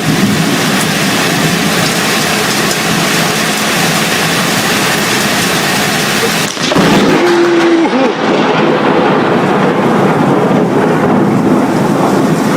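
Loud steady rushing noise of a storm, heavy rain and wind, with an abrupt cut about six and a half seconds in. A couple of short pitched glides follow a second or so after the cut.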